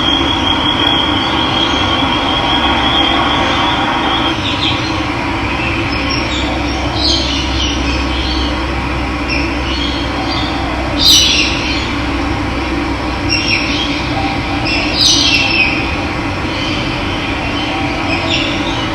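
Steady rush of running water with a low rumble, and birds chirping over it in short bursts, the loudest about 11 and 15 seconds in. A steady high trill sounds for the first few seconds, then stops.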